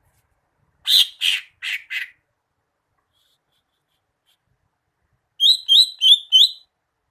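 Green leafbird (cucak hijau) calling: four harsh, scratchy notes about a second in, then after a pause a quick run of four short rising whistled notes near the end.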